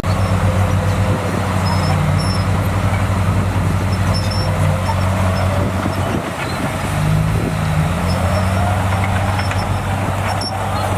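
Diesel engine of heavy earthmoving machinery running steadily with a constant low drone. A faint whine drifts up in pitch in the second half.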